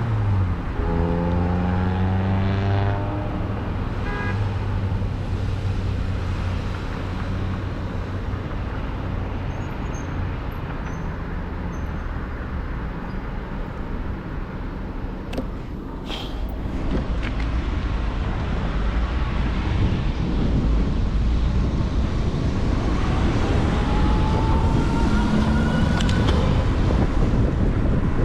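Road traffic and wind rushing over the microphone of a bike-mounted camera. A car's engine drops in pitch as it goes by in the first few seconds, and a rising whine comes in near the end.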